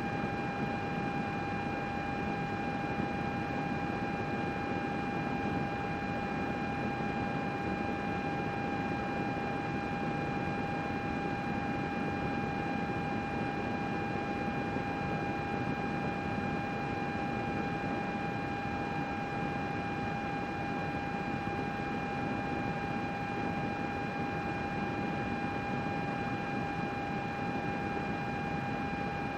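Computer cooling fans running steadily: an even whoosh of air with a steady whine on top.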